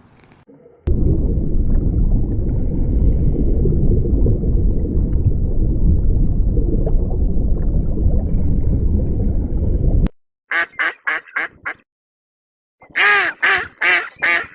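A loud, low rumbling noise for about nine seconds that cuts off abruptly, then a duck quacking in two quick runs of short calls.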